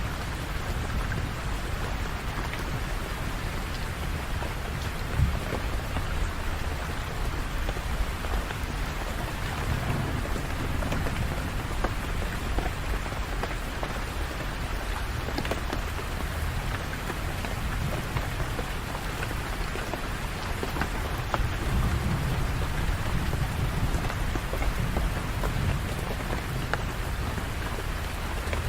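Steady rain falling on hard surfaces, with scattered sharp drop hits. A low rumble under it swells about ten seconds in and again a little past twenty seconds.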